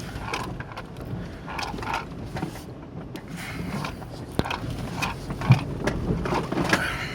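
A four-wheel-drive vehicle's engine running low and steady while crossing a river with ice in it. Irregular knocks, scrapes and splashes come from water and ice against the vehicle, with the loudest knock about five and a half seconds in.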